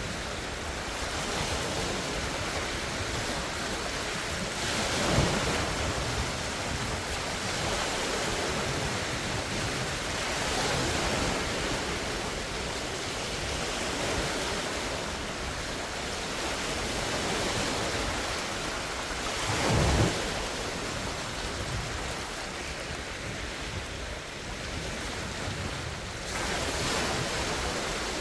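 Large wind-driven lake waves washing and breaking continuously, swelling and ebbing, with wind on the microphone. Two louder low thumps stand out, about five seconds in and again near twenty seconds.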